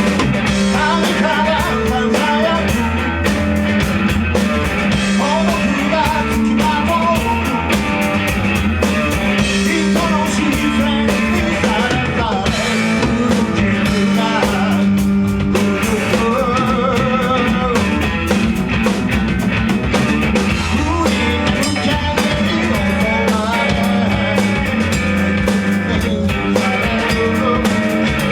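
A rock band playing live: drum kit, electric guitar and bass with a voice singing over them, loud and continuous.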